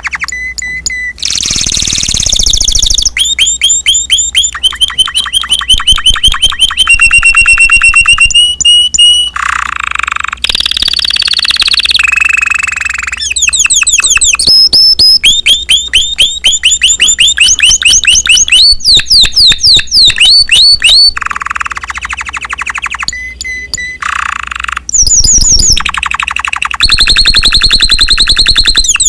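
A Spanish Timbrado canary singing a long song of rapid trills and rolls. It switches to a new phrase of fast-repeated notes every second or two, some high and some lower, with only brief breaks.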